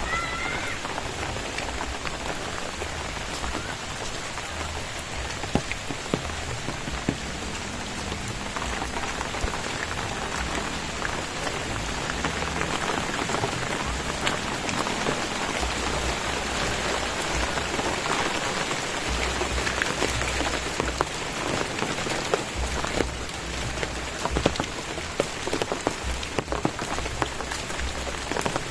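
Steady rain falling, with many distinct drop impacts heard through the hiss, and an on-and-off low rumble underneath.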